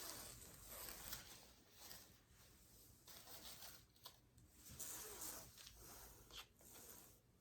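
Faint, irregular rubbing and scraping with a few light ticks, like small objects being handled on a work surface; otherwise near silence.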